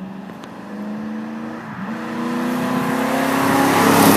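1999 Ford Crown Victoria Police Interceptor's 4.6-litre V8 through Flowmaster 40 Series mufflers, accelerating toward the listener. The exhaust note climbs in pitch and grows louder, loudest at the end, with a deep, dirty-sounding rumble.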